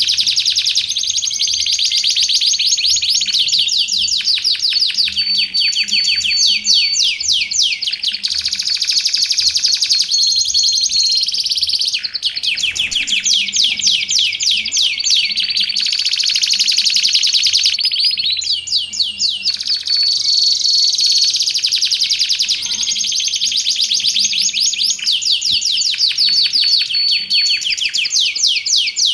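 Canary singing a long, unbroken song of fast, high-pitched trills and rolls, with short held notes slipped in every few seconds.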